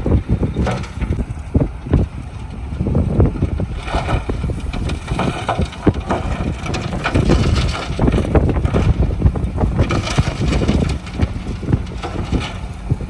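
Wind buffeting the microphone in uneven gusts over the low rumble of heavy construction machinery.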